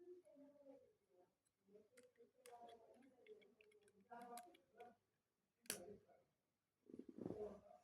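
Small clicks and ticks of plastic Lego pieces being handled and fitted, with a sharp click about two-thirds of the way through and a brief rustle near the end. Faint murmuring voices sit in the background.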